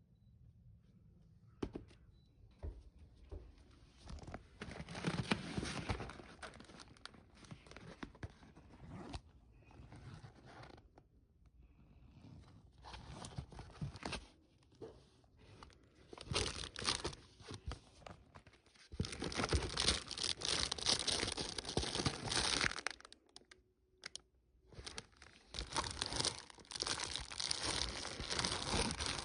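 Packaging being handled and rummaged through: irregular bursts of crinkling, rustling and tearing, with short pauses, busiest in the second half.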